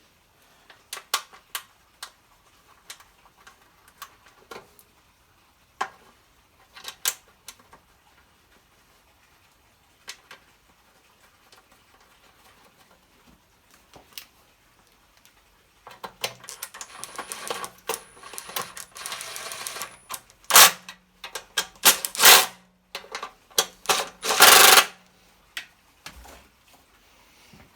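Hand tools and metal parts being handled on a small generator: scattered sharp clicks and knocks, a quiet spell, then denser clattering with several loud knocks in the second half.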